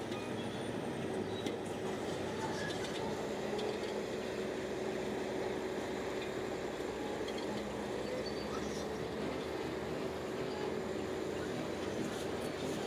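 Bulldozer running steadily as it works, a constant mechanical drone with a steady whine held over it and a few light clicks and rattles.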